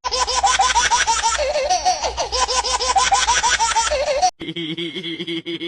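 Rapid, high-pitched laughter in quick repeated bursts, several a second, which cuts off abruptly about four seconds in. A lower, steadier voice-like sound follows it.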